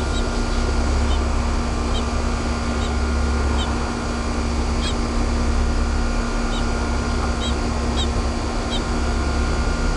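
Baby bird peeping, a scattering of short, faint, high chirps about a dozen times, over a steady low hum and rumble.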